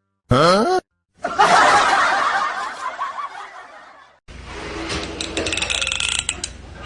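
People laughing, in short stretches broken off by sudden cuts, with a brief sound that glides in pitch just before.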